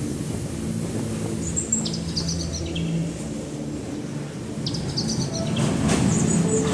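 Steady low rumble of a moving train, growing louder near the end, with short clusters of high bird chirps twice along the way.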